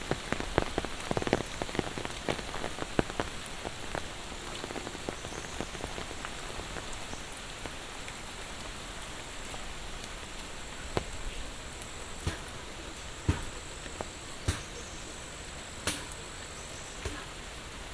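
Steady monsoon rain hissing, with heavy drops striking close by as sharp taps. The taps come thick and fast for the first few seconds, then thin out to scattered single drops.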